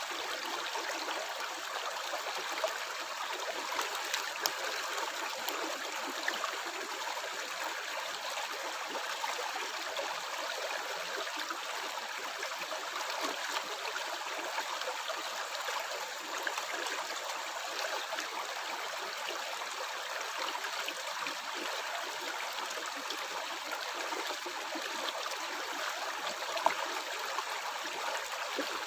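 Stream water flowing and gurgling steadily, with a few brief louder splashes.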